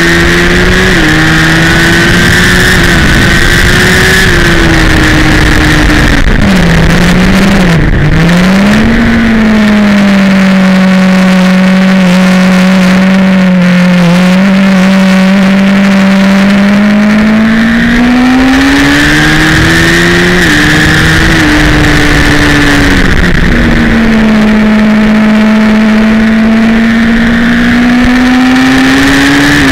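A Honda sport bike's inline-four engine, heard from on board at track speed over heavy wind rush. It pulls through quick upshifts in the first few seconds, then shuts off for braking with blipped downshifts. It holds a near-steady note through a long corner, then revs up through more upshifts before easing off and building again near the end.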